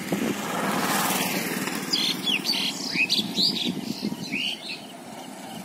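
Small birds chirping: a quick run of short, high, sweeping calls, preceded by a rushing swell of noise that rises and fades in the first second or so, over a constant low rumble.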